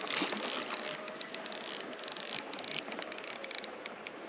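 Spinning reel clicking in rapid runs while a hooked fish is being fought on the line, the clicks thinning out near the end.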